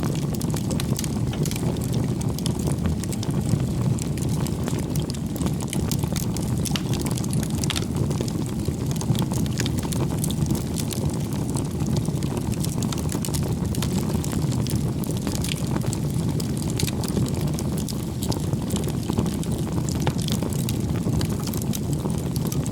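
Firewood bonfire burning: a steady low rush of flame with frequent small crackles and pops from the burning wood.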